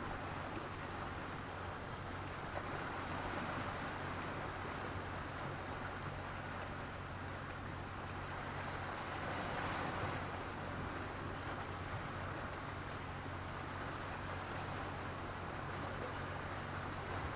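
Sea waves breaking and washing over a beach of black stones and sand, a steady rushing wash that swells about three seconds in and again near ten seconds. A faint steady low hum runs underneath.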